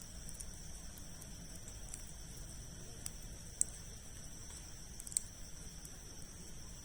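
Campfire of large logs burning with a low rumble and sparse sharp crackles and pops, the loudest two about a second and a half apart in the second half, over a steady high-pitched drone of insects.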